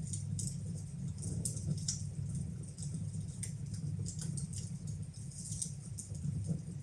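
Wood fire burning in a fireplace: frequent small, irregular crackles and pops over a steady low rumble.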